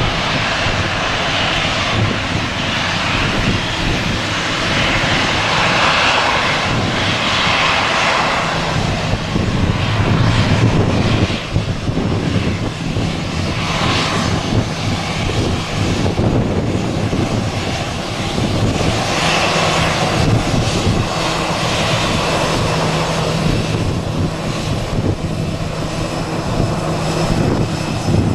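Jet engines of an Airbus A319 running: a loud, continuous rushing drone that swells and eases without a clear rise in pitch.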